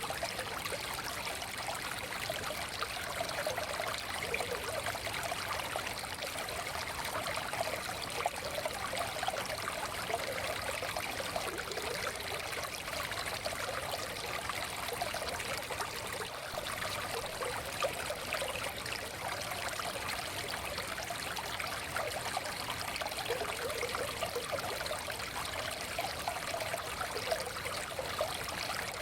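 Shallow forest stream flowing steadily, water babbling and trickling over stones.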